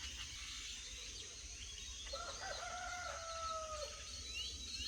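A rooster crowing once, a single long call of nearly two seconds that drops at the end, with many small birds chirping around it.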